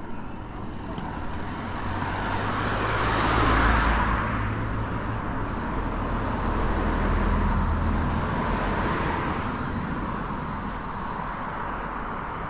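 Cars passing by on the road one after another, tyres and engines swelling up and fading; the loudest pass comes about three and a half seconds in, and a second one follows around seven to eight seconds.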